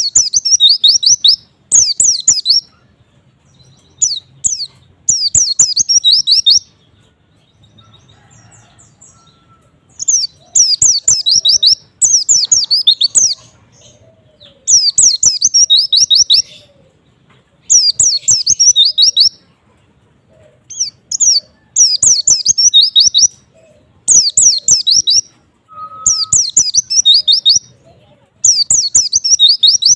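White-eye (pleci) singing: rapid, high-pitched twittering phrases, each a second or two long, repeated about a dozen times with short pauses between them.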